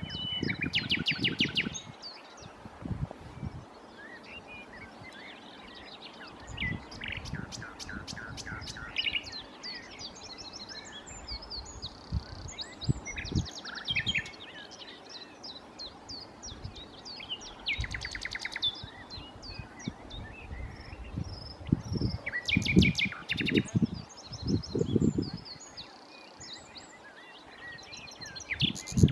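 Common nightingale singing: varied phrases of rapid repeated notes and fast trills, broken by short pauses, over intermittent low rumbling noise.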